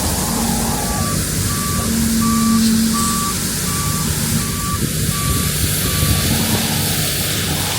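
Heavy farm vehicle's reversing alarm: about eight short, even beeps at one pitch, roughly one every 0.7 seconds, stopping near the end. Under it a heavy engine runs steadily.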